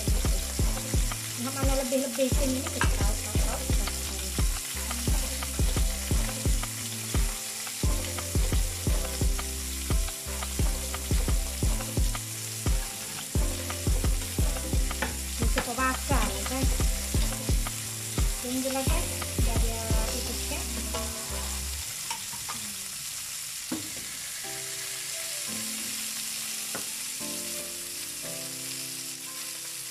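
Two scad (ikan selar) frying in olive oil in a nonstick pan, with a steady sizzle. Background music with a steady beat plays over it; the beat stops about two thirds of the way through, leaving softer music.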